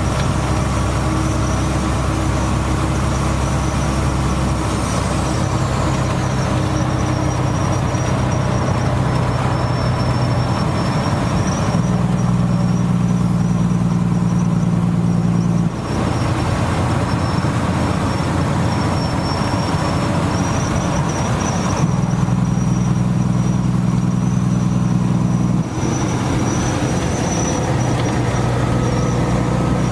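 Steady rain noise mixed with the low hum of a running vehicle engine. The hum steps up in pitch twice, for about four seconds each time, and a thin high whine runs throughout.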